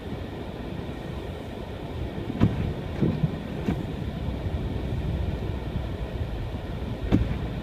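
Car driving on an unplowed, snow-covered road: a steady low rumble of the car and its tyres, with a few sharp thumps.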